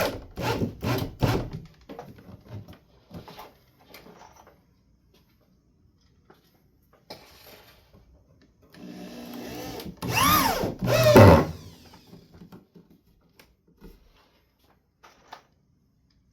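Power drill driving screws into the wall through a wooden shelf arm: short bursts with clicks near the start, then a longer run about nine seconds in whose motor pitch rises and then falls away as it stops.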